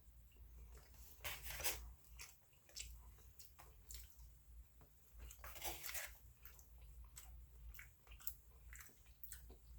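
A person chewing food faintly, with scattered small mouth clicks and two louder stretches of eating noise, about a second in and near the middle.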